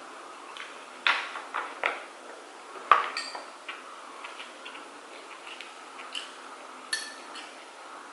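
Cutlery and dishes clinking and tapping during a meal: a scatter of sharp clinks, the loudest about three seconds in, with a cluster in the first two seconds and a few more near the end.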